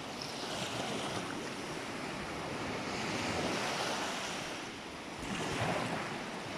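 Sea surf washing on the shore, swelling and easing slowly, with some wind on the microphone.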